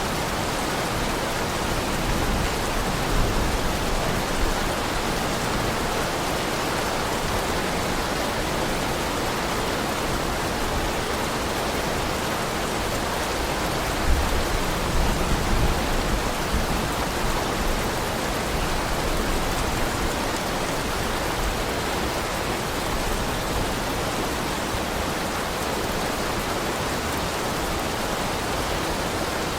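Heavy rain falling steadily, an even hiss with a low rumble swelling briefly about halfway through.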